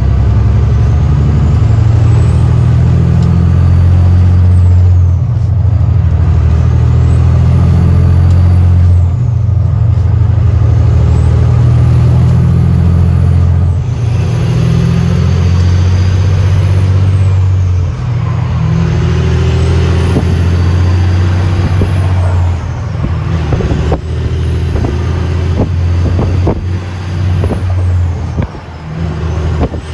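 Semi truck's diesel engine pulling hard and working up through the gears, with a brief dip at each shift about every four to five seconds and a turbo whistle rising and falling with each gear. Scattered knocks and rattles come in over the last several seconds.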